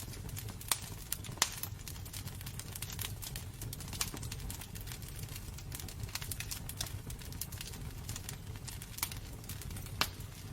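Wood fire burning in a fireplace: a steady low rumble of flames with irregular crackles and sharp pops from the burning logs, a few of them louder.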